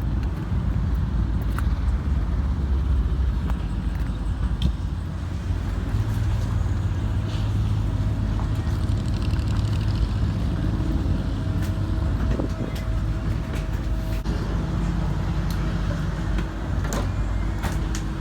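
Vehicle engine running at low revs, a steady low rumble whose pitch shifts slightly partway through, with a few light clicks.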